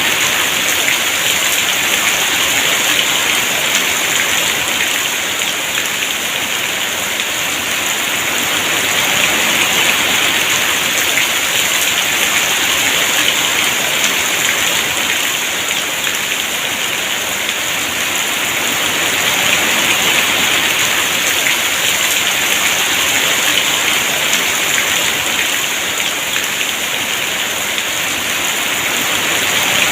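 Heavy rain falling steadily in a dense hiss, swelling and easing slowly in loudness every several seconds.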